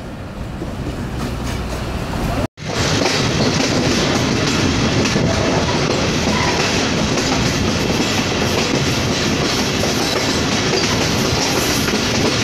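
A diesel locomotive and its passenger coaches approaching, the sound growing steadily louder. After an abrupt break about two and a half seconds in, a train runs close by with a loud, steady rumble and rattle of wheels on the rails.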